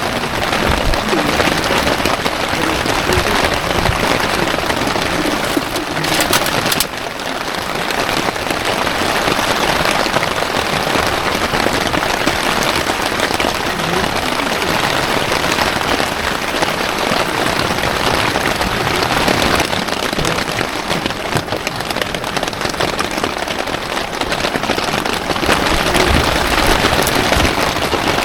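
Heavy rain pouring down, a loud, steady hiss that drops abruptly about seven seconds in and then builds again.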